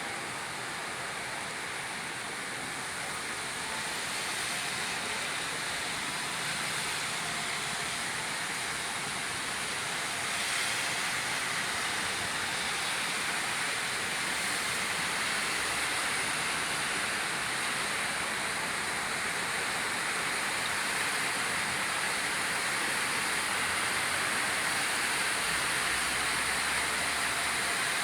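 Steady rain falling, an even hiss that grows a little heavier about a third of the way in and keeps building slightly.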